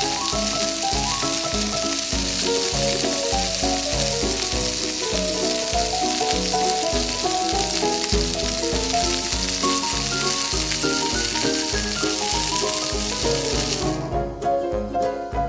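A frying sizzle sound effect, a steady hiss as of food in a hot pan, over background music with a regular bass beat. The sizzle cuts off abruptly near the end, leaving only the music.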